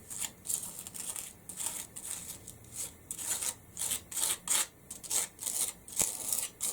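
Spatula spreading black structure paste through a stencil onto a wooden chopping board: repeated short scraping strokes, about two a second.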